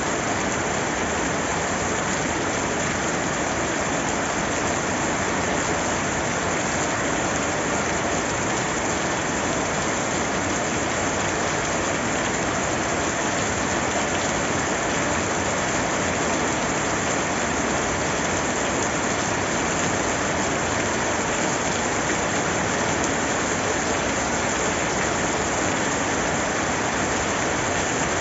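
Steady rain falling on a surface, an even, unbroken hiss that does not change.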